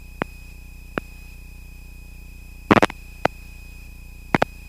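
Steady electrical hum with a thin high whine from an aircraft intercom feed, the engine itself gated out. Sharp clicks come through several times, a close cluster near the middle and a pair near the end.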